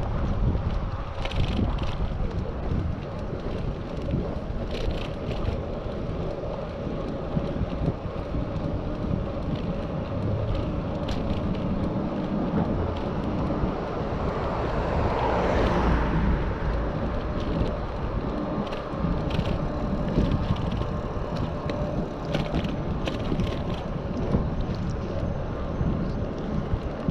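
Wind buffeting the action camera's microphone and the rumble of a Specialized Sirrus bicycle rolling along the road, with scattered light clicks and rattles. About halfway through, a broader swell of noise rises and fades.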